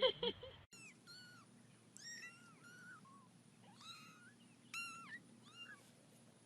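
Kitten mewing: a faint string of short, high-pitched mews, each rising and falling in pitch, repeated about a dozen times.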